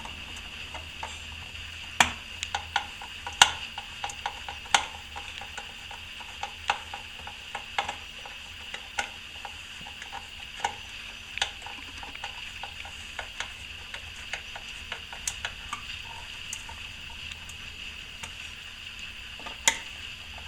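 Irregular light clicks and scrapes of hand tools at work on the wall fitting, a few sharper knocks among them, over a steady high hiss.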